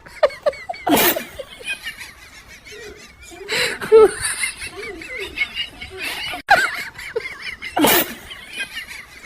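Laughter, with four short loud outbursts a couple of seconds apart and wavering high voice-like sounds between them.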